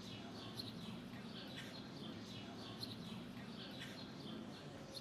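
Small birds chirping faintly, short calls every half second or so, over a low steady city hum.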